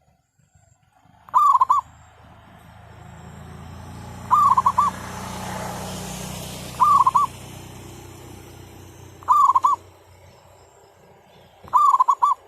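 Zebra dove (perkutut) cooing: five short, staccato, multi-note calls about every two and a half seconds. A low background rumble swells and fades through the middle.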